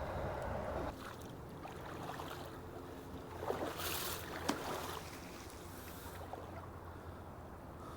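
Water splashing in a shallow creek, with a short burst about three and a half seconds in and a sharp slap about a second later, over a steady rush of running water.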